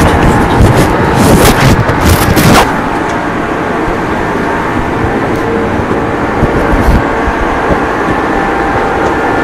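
Odakyu 9000-series electric train running at speed, heard from inside the passenger car: a steady rumble of wheels on rail with a faint steady whine. For the first two and a half seconds a louder rushing noise rides on top, then the sound settles to an even running rumble.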